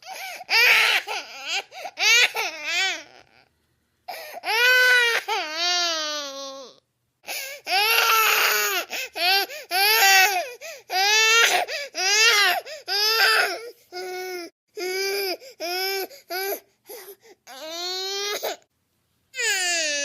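Cartoon baby girl crying sound effects: a string of short, wavering wails and fussing cries, one after another with brief silent gaps between them.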